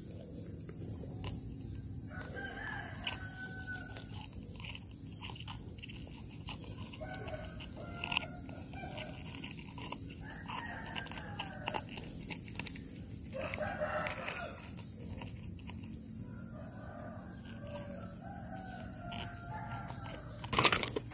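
Bird calls come in several separate bouts over a steady high chorus of crickets, with small clicks between them and a louder burst near the end.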